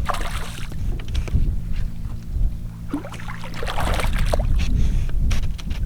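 Ambient noise aboard a small flats boat: a low rumble of wind on the microphone, a steady low hum that cuts off about four seconds in, and a few short washes of hiss from water or handling.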